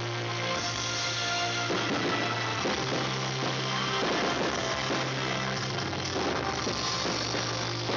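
Loud live rock music with drums and electric guitar, distorted in the recording by its volume.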